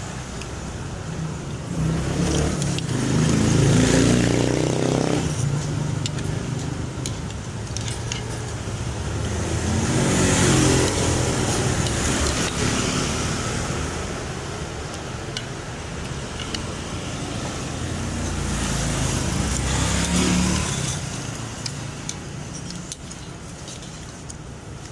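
Road traffic: vehicles passing by in three swells, about three, ten and twenty seconds in, with scattered light clicks and clinks in between.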